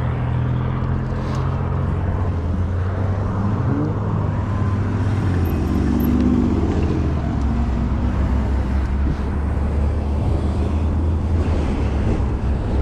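Road traffic: motor vehicle engines running close by with a steady low hum, swelling briefly about six seconds in.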